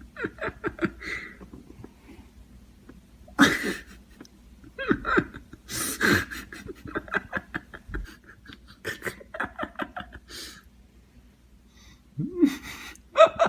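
People laughing in quick runs of breathy bursts, broken by a few short cries.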